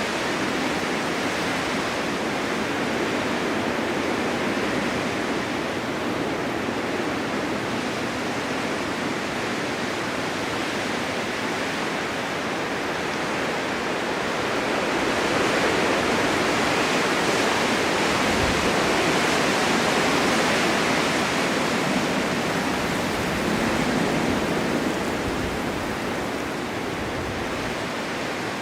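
Blizzard wind driving blowing snow: a steady rushing noise that swells into a stronger gust a little past halfway, surges once more, then eases off near the end.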